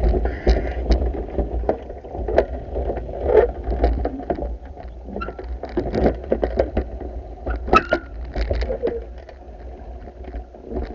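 Pool being vacuumed: a steady low hum with churning water and many irregular knocks and clicks.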